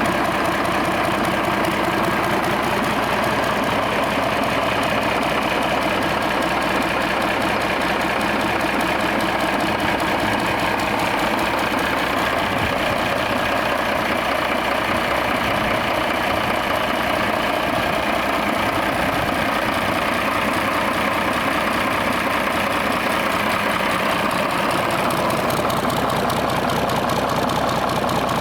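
Yanmar 6CH-STR six-cylinder marine diesel engine idling steadily.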